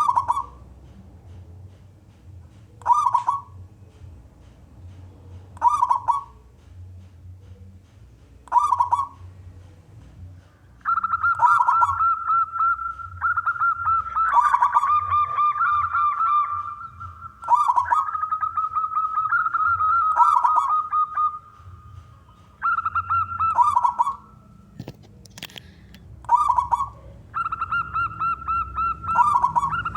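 Male zebra dove (perkutut) cooing: short coos about every three seconds at first, then from about eleven seconds in, long rapid stuttering cooing phrases follow one another almost without a break, with a higher-pitched line running over them at times.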